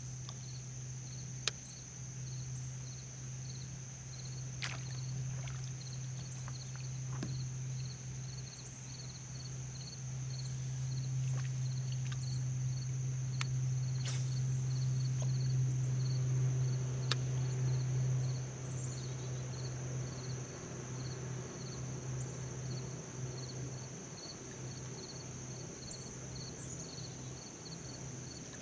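A boat motor drones steadily on the lake, growing louder towards the middle and dropping back suddenly past the halfway point. Insects trill high and steadily throughout, with a faster pulsing chirp beside them and a few sharp clicks.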